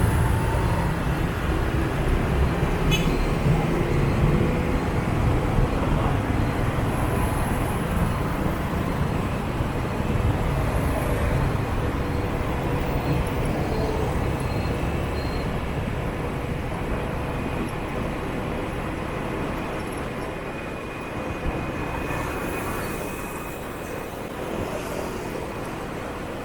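Motorbike street traffic heard while riding a scooter: a steady rumble of motorbike engines and road noise, growing gradually quieter over the stretch, with a brief click about three seconds in.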